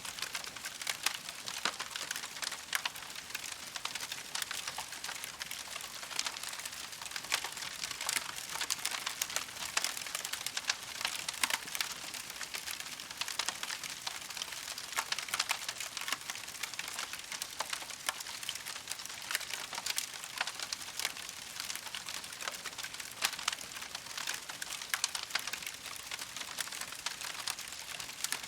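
Wood campfire crackling and popping, with many small sharp snaps over a steady hiss of burning.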